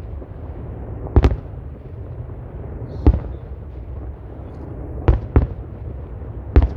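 Aerial fireworks bursting: five sharp bangs, roughly one every one and a half to two seconds, the fourth following close on the third, over a steady low rumble.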